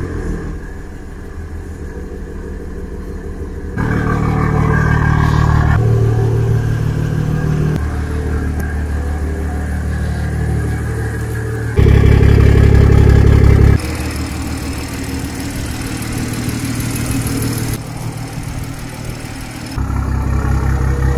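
BMW M140i's 3.0-litre turbocharged straight-six engine starting up, then running and being revved in short cut-together stretches, each at a steady engine speed and level that changes abruptly every few seconds. The loudest stretch comes about twelve seconds in.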